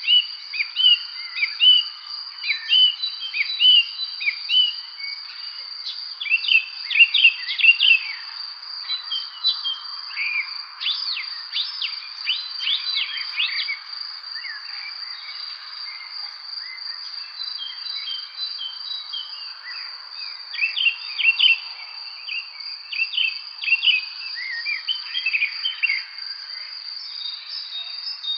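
Spring songbirds chirping and singing in bouts of short, quick phrases over a continuous high-pitched trill and a faint background hiss.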